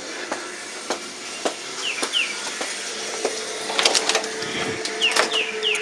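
Birds chirping: short notes that slide downward in pitch, a pair about two seconds in and a quick run of four near the end, among scattered clicks and taps. A steady hum comes in about midway.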